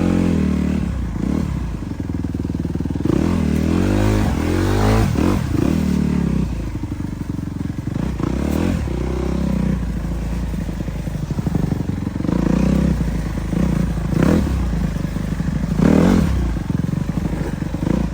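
Motocross bike engine revving up and dropping back again and again while riding off-road, the pitch climbing and falling every second or two.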